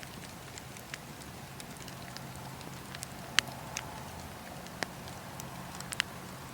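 Wood fire burning in a fireplace: a steady low hiss with irregular sharp crackles and pops, a few louder snaps about three and a half and six seconds in.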